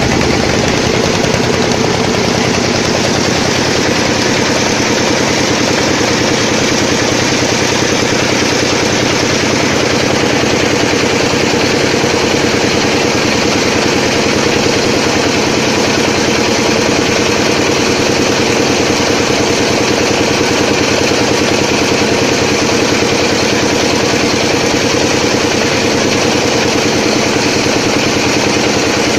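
A small boat's engine running steadily with a fast, even pulse.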